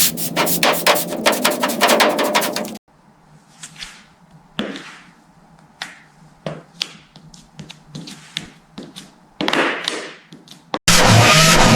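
Workshop tool sounds: a rapid run of clicks that stops abruptly, then scattered light taps and clicks. Near the end, a loud, steady machine noise with a low hum starts suddenly.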